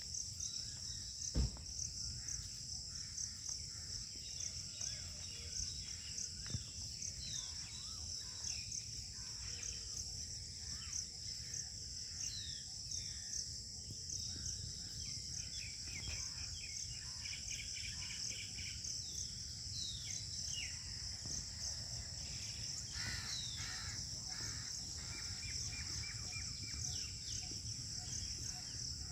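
Outdoor ambience: insects chirring steadily at a high pitch, with scattered bird calls over a low steady rumble. A single thump about a second and a half in.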